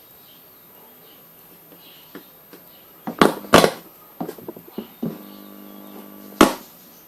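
Knocks and clatters: two loud sharp knocks, then a few lighter ones. A steady buzzing hum follows for about a second and a half and ends abruptly with another loud knock. Faint bird chirps sit in the background.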